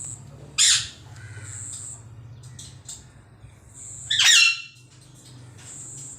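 Green parrot squawking: two loud harsh screeches, one about half a second in and one about four seconds in, with softer short chirps between them.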